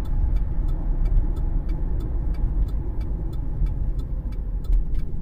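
Steady low road and drivetrain rumble inside the cabin of a 2013 Cadillac CTS 3.0 RWD on the move, with faint, evenly spaced ticks over it.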